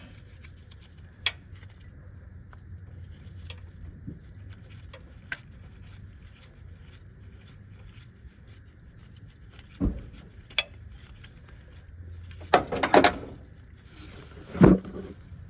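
Scattered metal clicks and clinks of hand tools against engine parts, with a few heavier knocks near the end as a fastener is worked loose.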